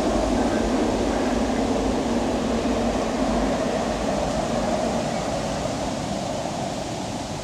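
Train rumbling across a high steel truss railway bridge, a steady noisy rumble that slowly fades as the train moves away.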